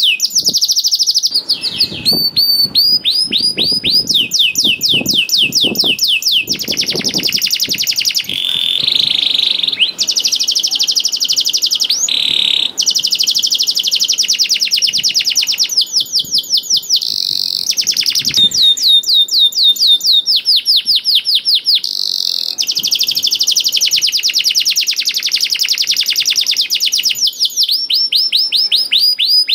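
Canary singing in full song: a long, unbroken run of rapid trills, each phrase a fast series of repeated down-sweeping notes, switching to a new phrase every second or two.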